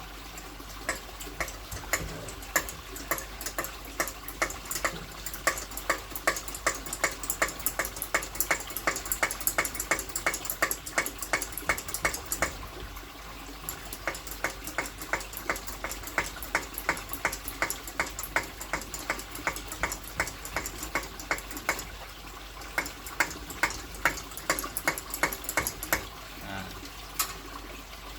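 Hand air pump of an old kerosene pressure lantern being worked, each stroke a sharp click at about three a second, to build pressure in the fuel tank. The pumping runs in three spells, with brief pauses near the middle and about three quarters of the way through.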